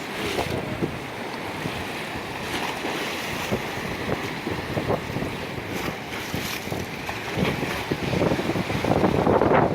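Wind buffeting the microphone over the wash of ocean waves, gusting louder near the end.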